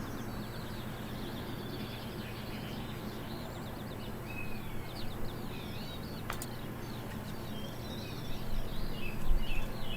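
Small garden songbirds, house sparrows and finches, chirping and twittering, busier toward the end, over a steady low hum. A single sharp click about six seconds in.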